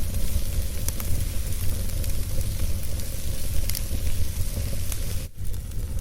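Wood fire burning in a fireplace: a steady low rumble and hiss with a few sharp crackles, briefly dropping out about five seconds in.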